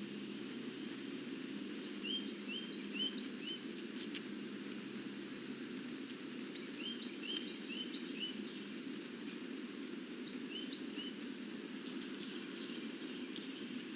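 A bird giving short, rising chirps in quick runs of four or five, three times, over a steady low outdoor background noise. A few faint clicks come near the end.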